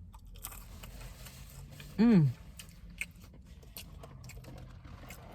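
A person chewing fried chicken close to the microphone, with soft wet clicks and crunches, and one short vocal sound that falls in pitch about two seconds in.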